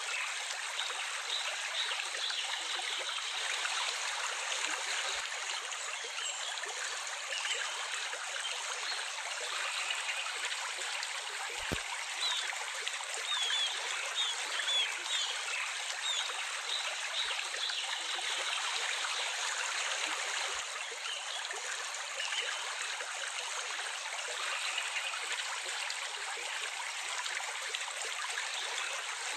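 Steady rushing and trickling of running water, like a small stream. A few short bird chirps come through near the middle.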